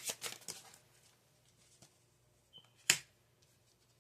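Tarot cards being shuffled and handled, with quick rustling strokes in the first moments, then a single sharp click about three seconds in.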